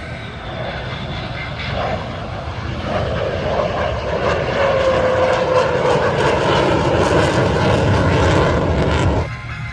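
Military jet aircraft flying past with a roar that builds over several seconds. Near the middle a whine falls slowly in pitch. The sound cuts off suddenly near the end.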